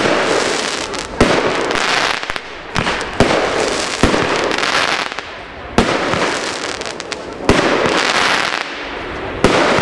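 Pyro Austria 'Silver Spider' 12-shot firework battery firing: a sharp bang about every one to two seconds, each followed by a rushing hiss as the burst spreads.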